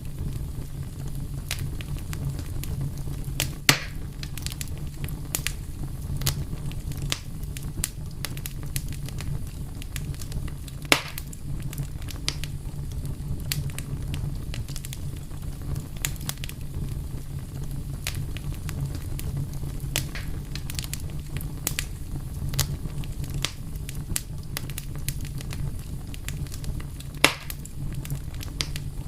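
Wood fire burning steadily with a low rumble of flame and frequent sharp crackles, three louder pops standing out at about four, eleven and twenty-seven seconds in.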